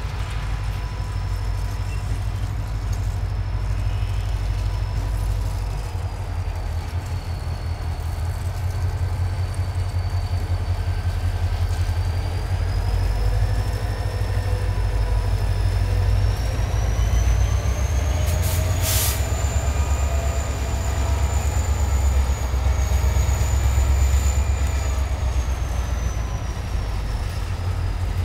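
Diesel freight locomotives working in a rail yard: a steady low engine rumble that grows louder about halfway through as the train moves, with thin, high, slowly sliding squeals of steel wheels on the rails. About two-thirds of the way in there is one brief sharp noise.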